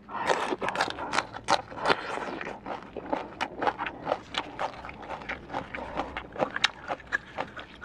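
Close-miked chewing of food: a dense run of wet, crunchy mouth clicks and crackles.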